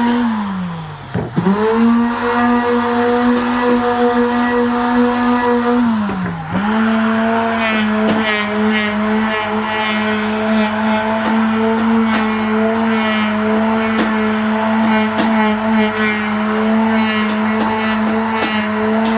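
Electric woodworking machine motor running with a steady hum. It sags in pitch twice as it bogs down under cutting load and recovers, then keeps running while wood is cut with a rapid, chattering scrape.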